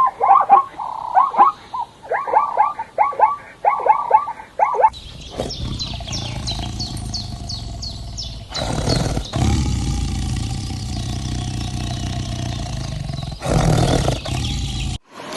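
Animal calls: a fast run of short calls, each falling in pitch, for about five seconds. Then comes a steady low rumble with high chirps over it, which cuts off suddenly near the end.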